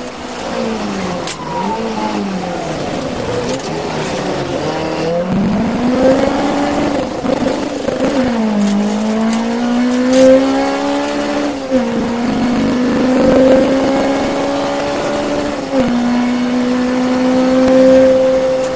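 Peugeot 205 1.6 Mi16 rally car engine driven hard through a stage. The revs fall and rise with braking and acceleration, and the note drops sharply on gear changes about twelve and sixteen seconds in, then climbs steadily again.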